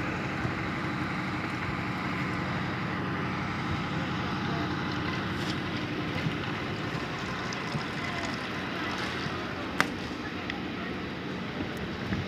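Wind rushing over the microphone while riding, over a steady low vehicle hum, with one sharp click a little under ten seconds in.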